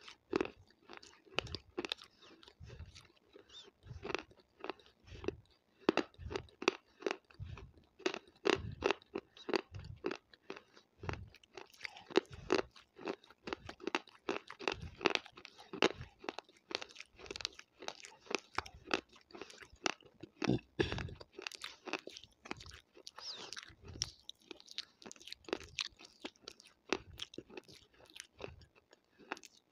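Close-miked chewing of crunchy food: a steady run of wet, crackling crunches, two or three a second, with the mouth right at the microphone.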